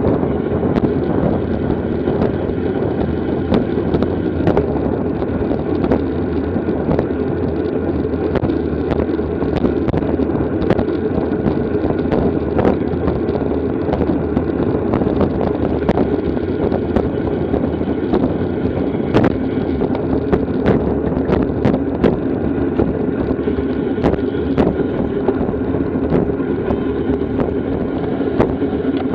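Steady wind rush over the microphone of a bicycle-mounted camera during a road race, with scattered sharp clicks and ticks from the bike.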